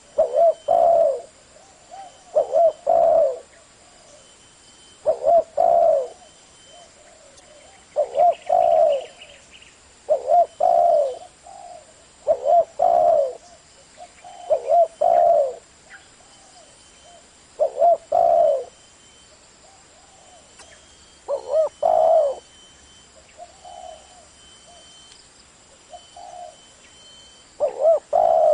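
Spotted dove cooing: short multi-note coo phrases repeated about every two seconds.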